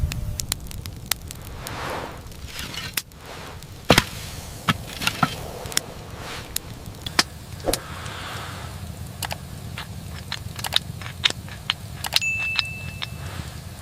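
Irregular sharp clicks and crackles over a low rumble, with a brief high steady tone about twelve seconds in.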